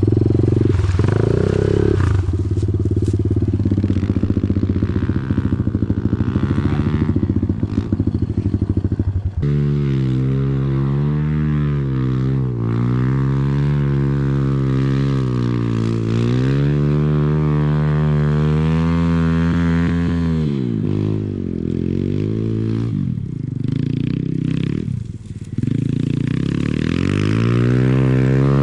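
Off-road vehicle engine running hard. For about the first nine seconds it holds a steady fast putter, then it revs up and down again and again. It drops away about twenty seconds in and revs up again near the end.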